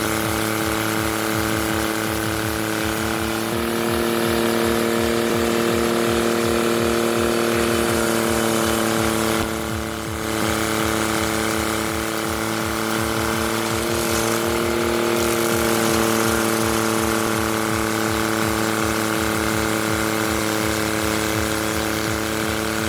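Carlton 7015 TRX stump grinder running with a steady mechanical drone, its pitch shifting slightly a few seconds in and again about two-thirds of the way through, with a brief dip in level around the middle.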